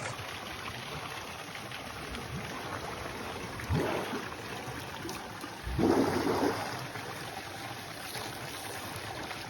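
Steady rush of water, with two louder splashes about four and six seconds in.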